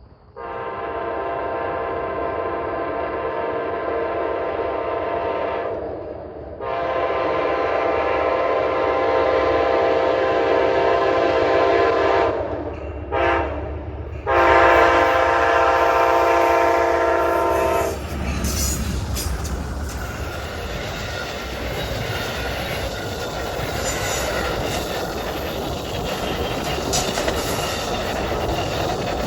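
Diesel locomotive horn sounding the grade-crossing signal: two long blasts, a short one and a final long one. Then the train passes close by with a loud rumble and clattering wheels on the rails.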